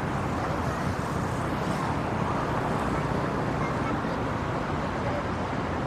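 Busy city street ambience: a steady rumble of traffic with indistinct voices in the background.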